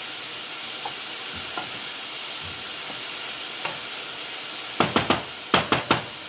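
Chopped onion, garlic and bell peppers sizzling with smoked sausage in a pot. Near the end, a stirring utensil knocks sharply against the pot six times in two quick groups of three.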